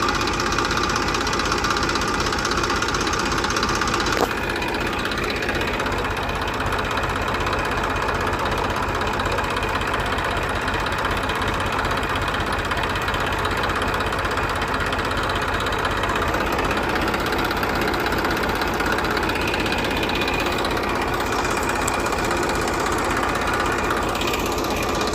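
Small engine of a homemade mini tractor running steadily with a fast, even knocking beat, with a click about four seconds in.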